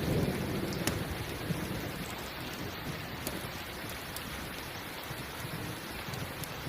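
Steady rain, with a low thunder rumble dying away over the first second or so. A few sharp ticks stand out above the rain.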